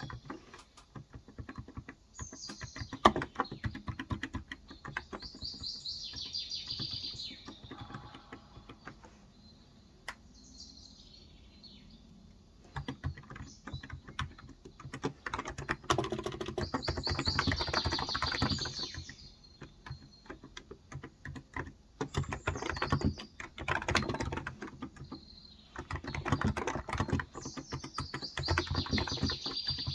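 Typing on a Cox Endeavor electrostatic capacitive (contactless) tenkeyless keyboard with 35 g switches: runs of quick keystrokes in bursts, with a quieter pause in the middle. Birds chirp in the background several times.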